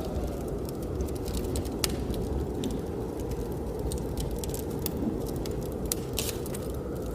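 Wood fire crackling and popping in a fireplace, with irregular sharp snaps several times a second, over a steady low rumble of blizzard wind.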